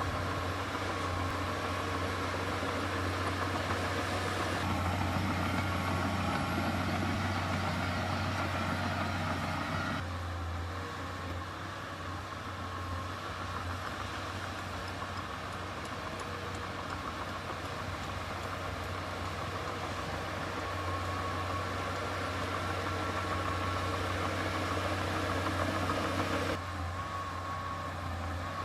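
Heavy diesel construction machinery engine running steadily with a deep drone and a faint steady whine. The sound changes abruptly in tone and loudness three times, about 5, 10 and 26 seconds in.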